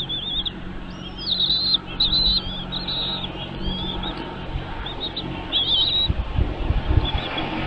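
Small birds chirping in quick runs of short, high-pitched, wavering notes, thinning out near the end. Low rumbling thuds come in during the last second or two.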